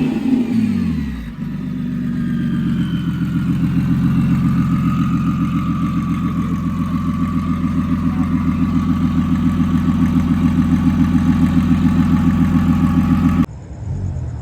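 Car engine coming down off a rev, then idling steadily with a fast, even pulsing beat that grows slightly louder; it cuts off suddenly near the end.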